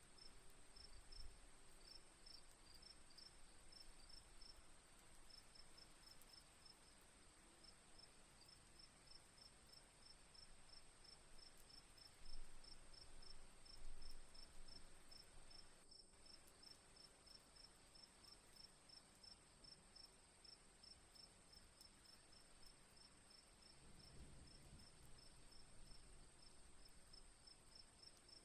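Quiet crickets chirping in a steady, even rhythm over a constant high insect drone, with two soft bumps a little before halfway through.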